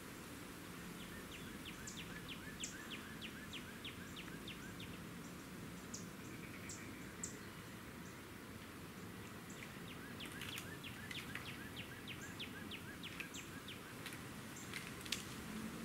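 Wild birds calling in runs of short, quickly repeated chirps, about three a second, over a steady low outdoor hiss. One sharp click sounds near the end.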